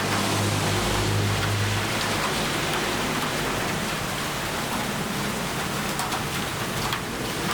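Steady, fairly loud rain falling in a storm, with a low rumble underneath for the first two seconds.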